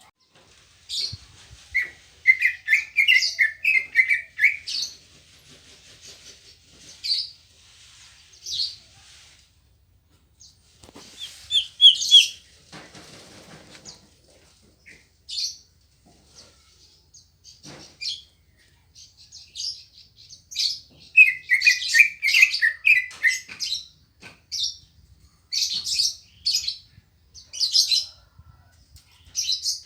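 Cucak ijo (greater green leafbird) singing in bouts of rapid, high chirps and warbled phrases. The bouts are separated by pauses of a few seconds, and the phrases come thickest in the last third.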